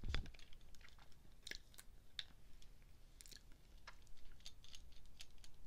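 Quiet chewing of tortilla chips: scattered short, crisp crunches and mouth clicks at an uneven pace.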